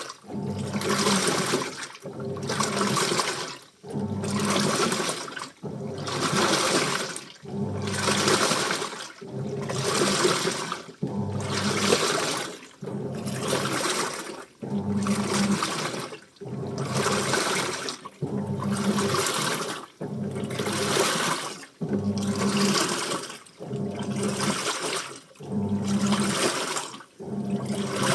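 Washing machine in its wash cycle, churning water and clothes: swells of sloshing water with a low motor hum, rising and falling about every two seconds.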